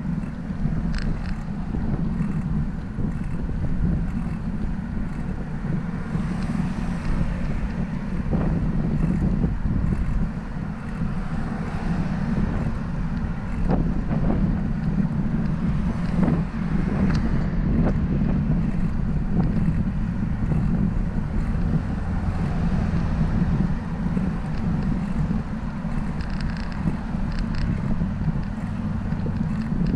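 Wind buffeting the microphone while riding a bicycle, a steady low rumble with road noise mixed in.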